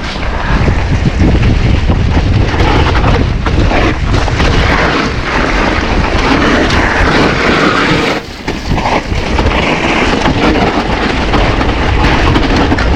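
Wind noise buffeting an action-camera microphone on a mountain bike ridden fast down a wet trail, with tyre noise and scattered knocks from the bike over rough ground. The noise drops briefly about eight seconds in.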